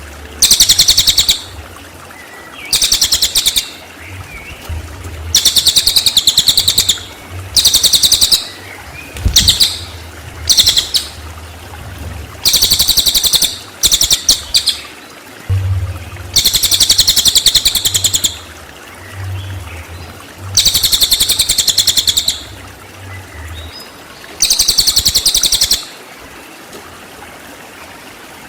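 Cililin songbird giving about a dozen high-pitched bursts of very fast rattling trills ('tembakan'), each up to about two seconds long with short pauses between, stopping a couple of seconds before the end.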